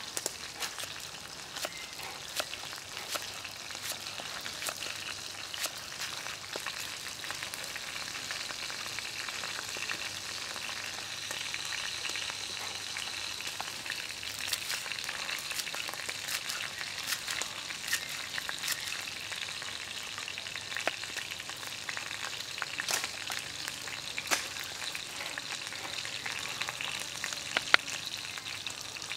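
Steady sizzling hiss of food frying in oil, with scattered sharp taps of a cleaver striking a wooden chopping board.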